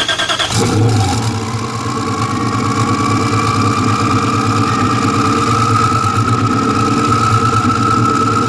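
Heffner twin-turbo Ultima GTR's V8 cranking on the starter and catching about half a second in, then idling steadily. A high whine over the idle slowly rises in pitch.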